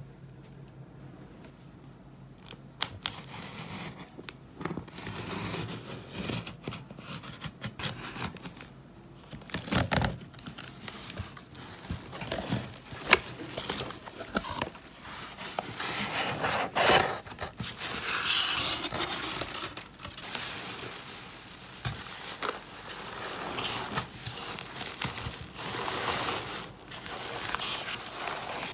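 Packaging being handled and opened: plastic and paper rustling, crinkling and tearing, with scattered clicks and knocks of handling.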